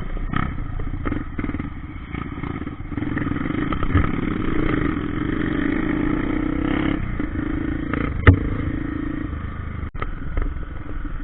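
Trail motorcycle engine running steadily, with scattered knocks and clatter and a sharp knock about eight seconds in.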